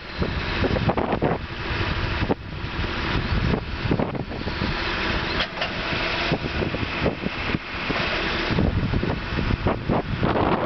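Heavy-equipment engine running steadily, with wind buffeting the microphone in gusts.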